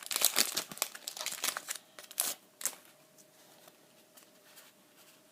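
Foil Pokémon booster pack wrapper crinkling and crackling as it is handled and opened: a dense run of crackles over the first two seconds or so, then two more single crackles.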